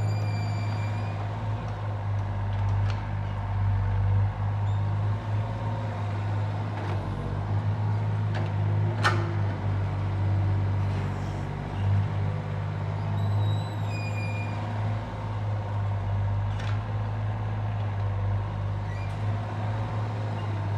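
Excavator's diesel engine running steadily with a deep hum. A single sharp metallic clank comes about nine seconds in, and short high squeaks sound near the start and again around fourteen seconds.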